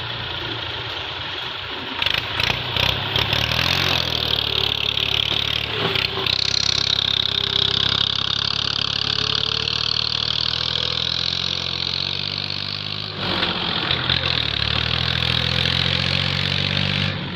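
Massey Ferguson tractor's diesel engine running, getting louder about two seconds in, easing off briefly around thirteen seconds, then picking up again.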